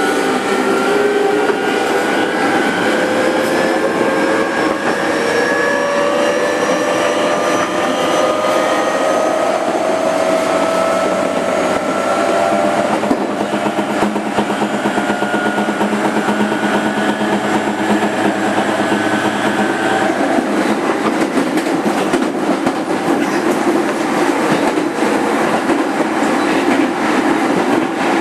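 Onboard running sound of a 205 series 5000-subseries electric motor car: the traction motors whine with several tones that slowly rise in pitch as the train picks up speed, then level off. About twenty seconds in the whine cuts out and the train coasts with steady wheel-on-rail rumble and clickety-clack of rail joints.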